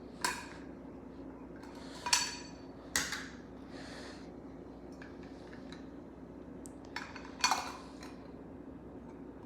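Hard objects clinking against a dish that rings briefly after each knock: three clinks in the first three seconds and a louder one about seven and a half seconds in.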